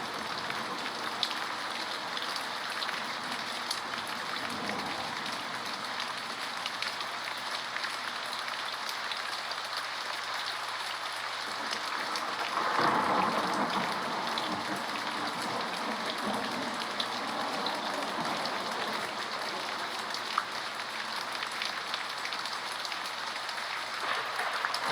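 Steady rain falling, with scattered drops ticking sharply through it; the rain swells louder for a second or two about halfway through.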